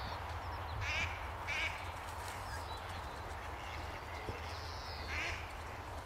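Three short, harsh bird calls, two close together about a second in and one near the end, over a steady low outdoor rumble.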